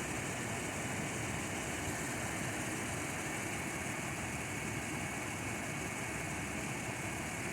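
The warmed-up 4.0-litre V6 petrol engine of a 2004 Toyota Land Cruiser Prado (J120), heard from the open engine bay, idling steadily and smoothly.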